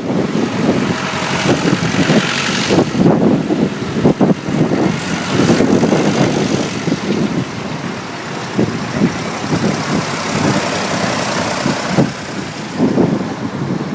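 Tractor engines running, a loud, uneven mix of engine noise with no clear single rhythm.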